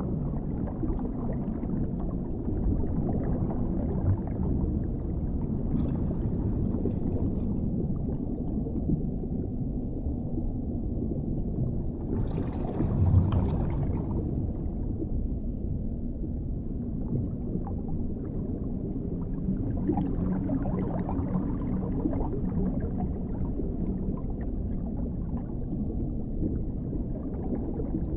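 Dark underwater ambience: a steady, muffled low rumble with gurgling water. It swells louder and brighter for a couple of seconds about halfway through.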